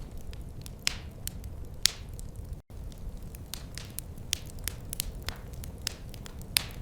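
Wood fire crackling, with irregular sharp pops and snaps over a low steady rumble. The sound drops out for a split second about two and a half seconds in.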